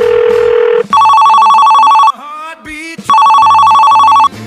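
A steady telephone tone that stops about a second in, then an electronic telephone ringing twice. Each ring is a fast-trilling two-note warble lasting about a second, with a pause of about a second between the rings.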